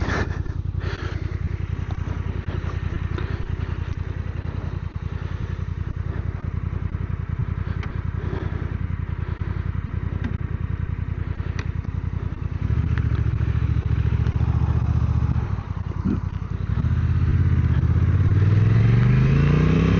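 Motorcycle engine running steadily at low revs. The throttle opens about two-thirds of the way through, eases off for a moment, then the bike accelerates with the engine pitch rising near the end.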